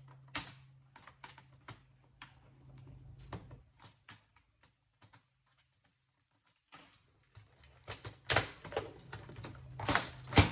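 Light clicks and knocks of electronic parts being handled during the teardown of a home theater unit, pausing for a couple of seconds midway, then louder clattering knocks near the end.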